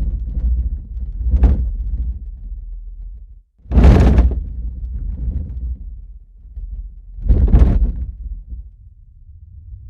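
Low rumbling with three heavy thumps, about a second and a half in, about four seconds in (the loudest) and near the end, as a building shakes in an earthquake.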